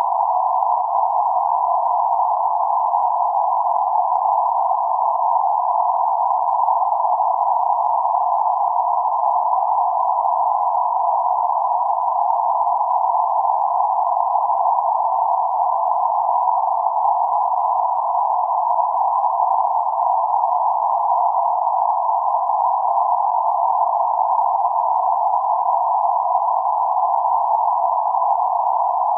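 Synthetic noise in a narrow band centred on 848 Hz: a steady mid-pitched hiss with no breaks or changes.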